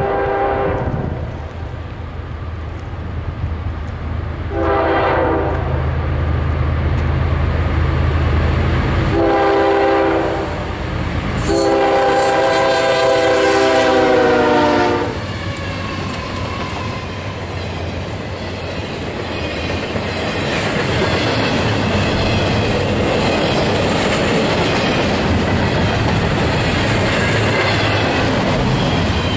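CSX freight train led by a GE ES40DC diesel locomotive, sounding its air horn in four blasts with the last held about three and a half seconds, over the low rumble of the approaching diesel. After the locomotives pass, intermodal cars roll by with a steady clickety-clack of wheels on the rails.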